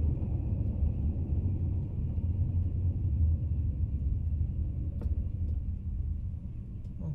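Steady low road and engine rumble inside the cab of a Class C motorhome (2018 Coachmen Leprechaun) on the move, growing a little quieter near the end, with a faint click about five seconds in.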